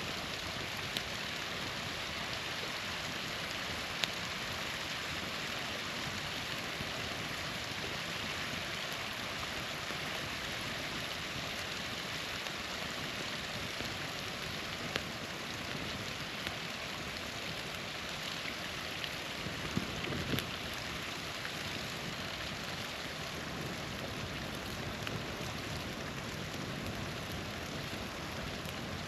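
Small waterfall splashing steadily, with a few sharp pops from a crackling campfire.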